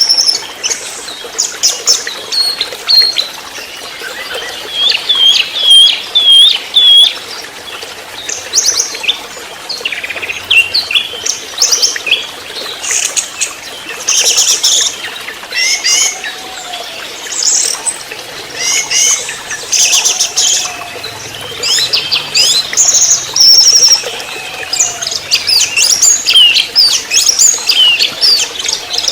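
Orange-headed thrush (anis merah), a young speckled bird, singing a rapid, varied run of sharp chirps, upslurred whistles and short trills, phrase after phrase with barely a pause.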